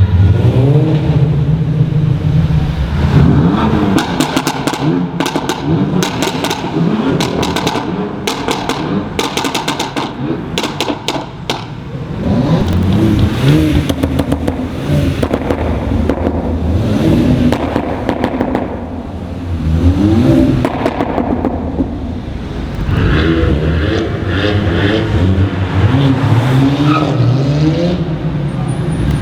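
Performance car engines revving and accelerating, their pitch rising and falling several times. A rapid run of sharp exhaust crackles and pops comes between about four and twelve seconds in.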